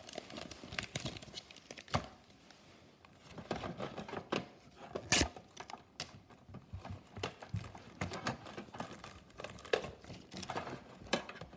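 Foil booster-pack wrapper of Pokémon trading cards being torn open and crinkled: irregular crackling with a few sharp snaps, the loudest about two and five seconds in.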